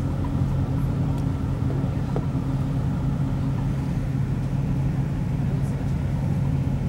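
Steady interior running noise of a moving Class 175 diesel multiple unit: a constant low drone from its underfloor diesel engine, over the rumble of the wheels on the track.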